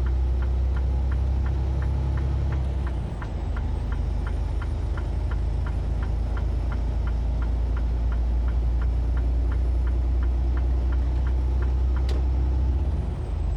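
Semi truck's engine running inside the cab, with a turn signal ticking steadily about three times a second. The engine rumble dips briefly about three seconds in, and there is one louder click near the end.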